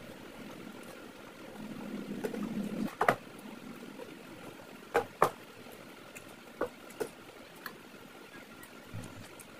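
Close-up eating sounds from someone eating curry and rice by hand: soft wet chewing, then several sharp wet smacks and clicks over a faint steady hum.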